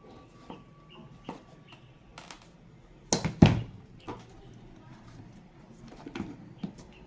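Scattered clicks and knocks of tools and wood being handled during a door-jamb glue-and-clamp repair, with two loud knocks in quick succession about three seconds in.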